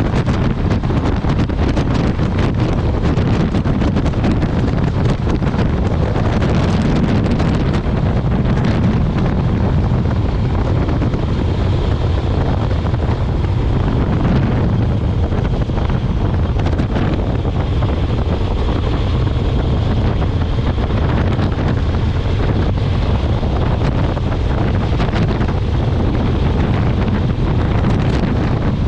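Heavy wind buffeting a microphone on a moving motorcycle, over the steady drone of the motorcycle and road at cruising speed. A faint steady high whine runs through the middle.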